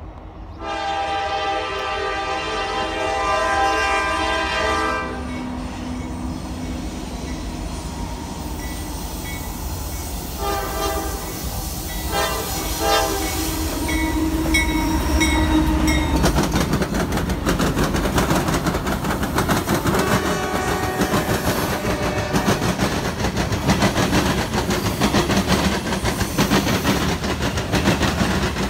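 Freight locomotive air horn sounding a long blast, then two shorter blasts about ten to thirteen seconds in, followed by a freight train passing close, its wheels clacking over the rail joints and the rumble growing louder.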